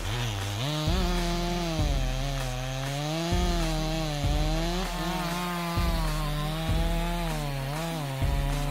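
Two-stroke chainsaw cutting through a large log, its engine pitch sagging and recovering as the chain loads up in the wood. A regular thump sounds about once a second under it.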